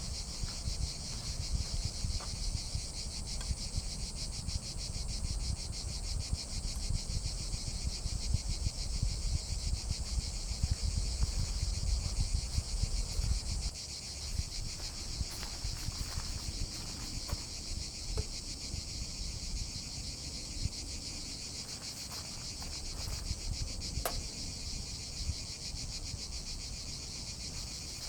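Insects chirring steadily in a continuous, high, finely pulsing drone, with a low rumble underneath that drops away about halfway through.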